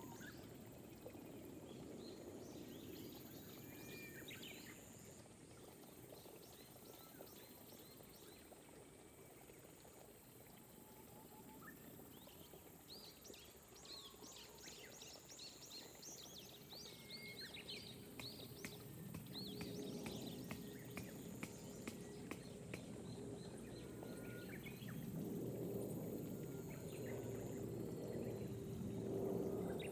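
Light rain falling steadily and growing louder in the second half, with birds calling over it: a dense run of quick chirps and trills in the middle. A steady high insect drone runs underneath, and a faint low steady hum joins in the second half.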